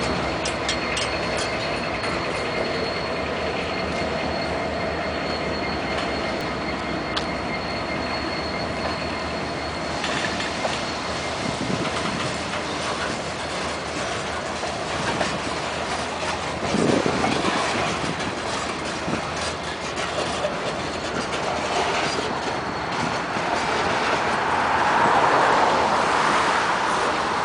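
Freight train cars rolling past close by, the wheels clacking over rail joints. A thin, high, steady squeal from the wheels runs through the first ten seconds or so.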